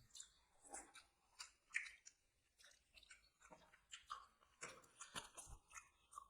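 Someone chewing chicken: faint, short crunches at an uneven pace, roughly two a second.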